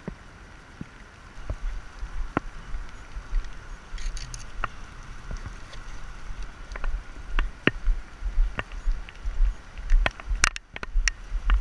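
Heavy rain: raindrops tapping on the action camera's housing in sharp, irregular clicks, coming faster toward the end, over a steady hiss. Underneath is a low rumble from the camera being jostled as its wearer walks.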